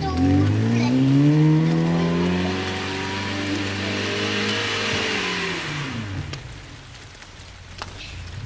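Lada sedan's four-cylinder petrol engine, fitted with changed valve lift, revving hard as the car drives across a grass field: the note climbs for about two seconds, holds, then falls away about five seconds in to a low, quiet running near the end, with a single sharp click shortly before the end.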